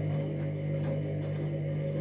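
Candy washing machine running mid-cycle with a steady low hum.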